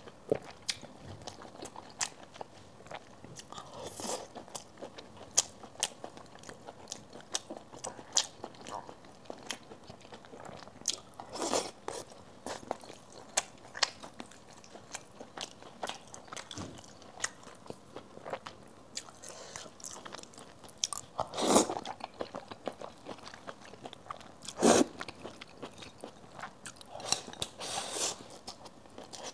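Close-miked eating: a person chewing mouthfuls of rice and braised dishes with wet smacks and small crunches, with wooden chopsticks tapping a porcelain rice bowl. A few louder bursts stand out, around 11, 21, 25 and 28 seconds in.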